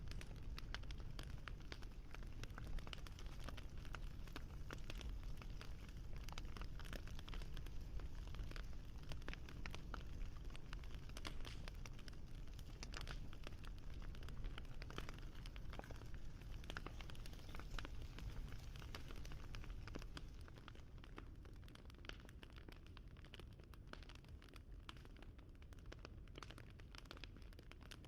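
Wood fire crackling: a dense run of small pops and snaps over a low rumble, getting a little quieter about twenty seconds in.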